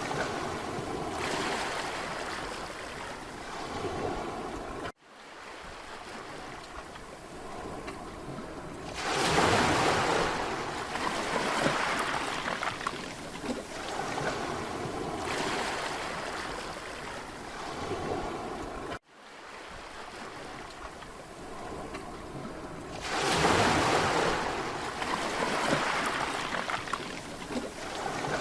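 Waves breaking and washing up on a Mediterranean beach, the surf swelling and ebbing, with two larger breakers about fourteen seconds apart. The sound cuts out abruptly for an instant twice.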